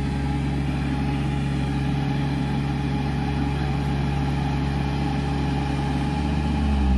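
Mini Sonalika tractor's diesel engine running steadily under load while pulling a load of paddy straw up an incline it cannot climb. The low rumble grows louder near the end.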